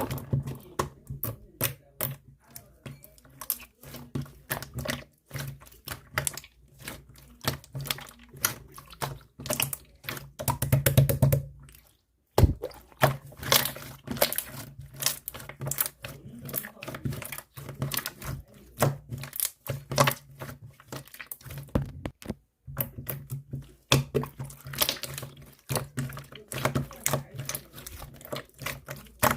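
Clear slime being squished and pressed by hand, giving a dense, irregular run of sharp wet clicks and pops, busiest around the middle, over a low steady hum.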